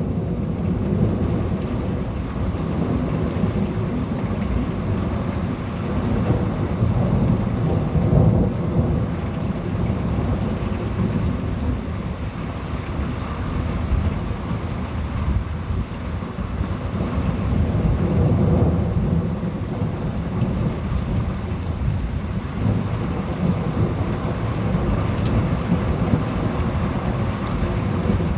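Thunderstorm: thunder rolling and rumbling low and continuously, swelling louder about a third of the way in and again past the middle, over steady rain.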